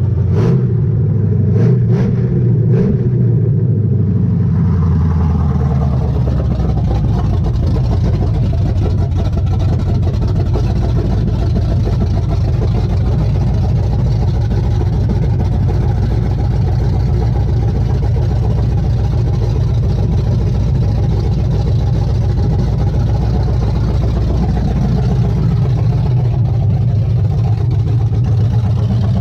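Chevrolet ZZ4 350 small-block V8 crate engine in a C10 pickup running at a steady idle with no exhaust system fitted yet, just after being installed. A few sharp clicks sound in the first three seconds, and the engine speed settles a little around four to six seconds in.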